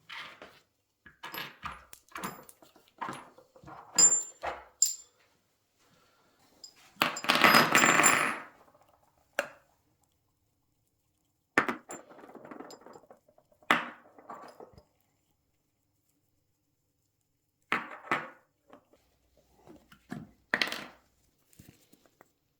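Metal motorcycle suspension parts and hand tools clinking and clattering as a rear shock linkage is refitted, in short scattered clusters of taps, with one louder noisy burst lasting about a second and a half around seven seconds in.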